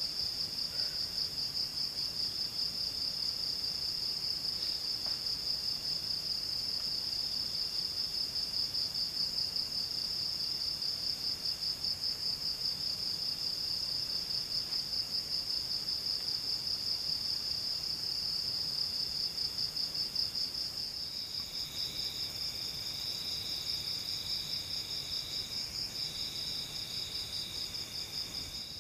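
Insect chorus: a steady, fast-pulsing high trill. About three quarters of the way through, a second, lower trill joins in phrases of a few seconds each.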